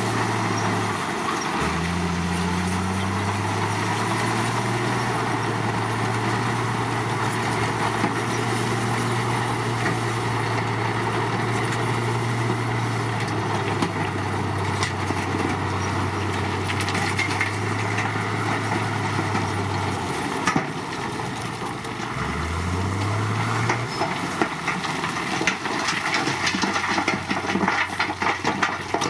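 Diesel engine of a Komatsu D53 crawler bulldozer working, its engine speed changing a few times and rising about three-quarters of the way through. From then on there is rapid metallic clatter, typical of the crawler tracks moving.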